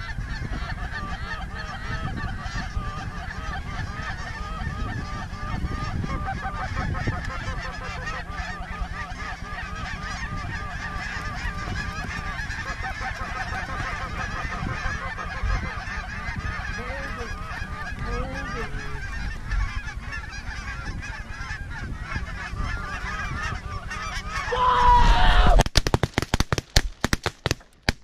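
A large flock of geese honking continuously over a decoy spread. Near the end a louder falling call rings out, then a rapid volley of many shotgun blasts follows.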